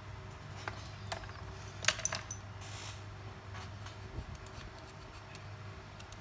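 A few small metallic clicks and clinks of tools being handled on a repair bench, loudest about two seconds in, with a brief hiss just before the three-second mark. A steady low hum runs underneath.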